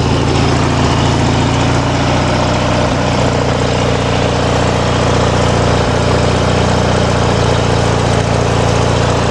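Craftsman lawn tractor's opposed-twin engine running steadily at idle, a little rough after sitting all winter.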